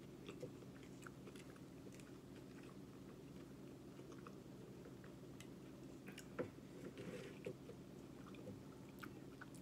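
Faint close-up chewing and biting of a burger and chicken nuggets, with small mouth clicks over a steady low hum and a sharper click about six seconds in.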